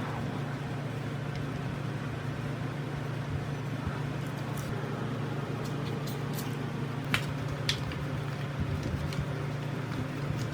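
A steady low machine hum, with a few light clicks about two-thirds of the way through.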